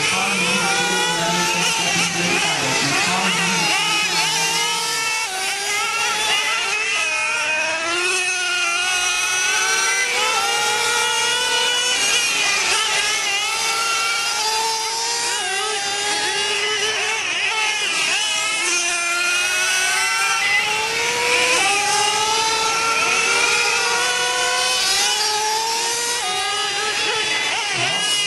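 Several nitro R/C monster truck engines buzzing at high pitch, their revs rising and falling over and over as the trucks race around the oval.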